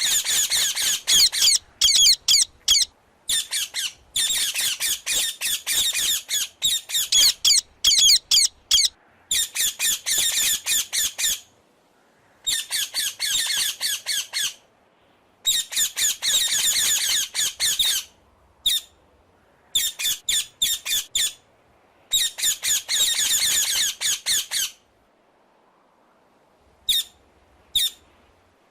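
Cockatoo screeching: harsh, high squawks in fast runs of repeated calls, broken by short pauses, with a longer lull near the end.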